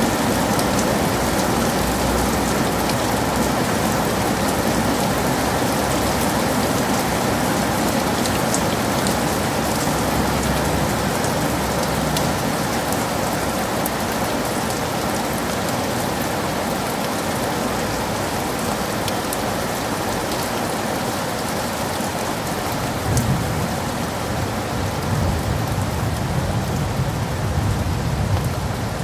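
Heavy rain falling steadily, a dense hiss of drops. A low rumble of thunder rolls in during the last several seconds.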